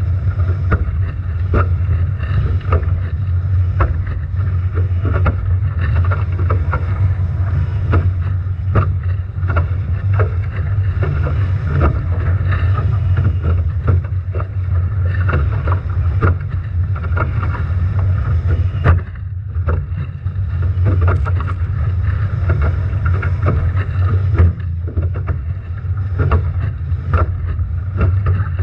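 Strong wind buffeting the onboard camera microphone of a Nacra 17 foiling catamaran sailing upwind, a constant low rumble, with frequent irregular sharp knocks and splashes as the boat pounds through heavy waves.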